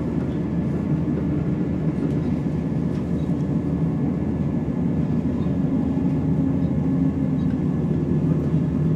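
Cabin sound of a Class 170 Turbostar diesel multiple unit underway: a steady rumble of the underfloor engine and running gear with a thin, steady whine over it, the cause of which the recordist is unsure of.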